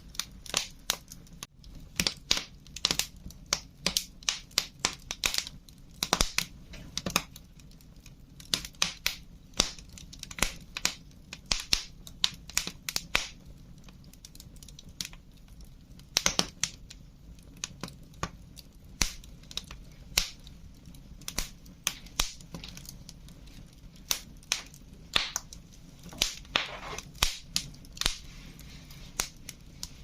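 Wood fire crackling: irregular sharp pops and snaps, sometimes several in quick succession, over a faint steady low background, with a brief soft hiss near the end.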